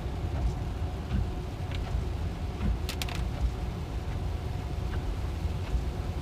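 Cabin noise of a Tesla electric car driving on a wet road in rain: a steady low rumble of tyres and road, with scattered light ticks and a couple of sharp clicks about three seconds in.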